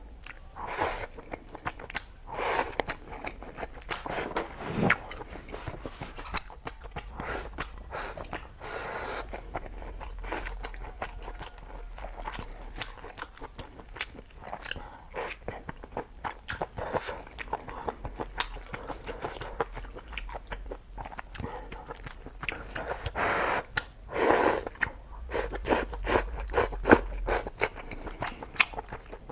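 A person chewing and biting food close to the microphone: many sharp, wet clicks and crunches in an irregular rhythm, with a few louder bursts.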